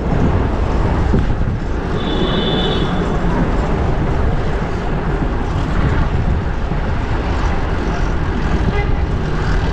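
Steady wind and traffic noise rushing over a GoPro's microphone while riding a fixed-gear bike through city traffic, with a brief high-pitched tone about two seconds in.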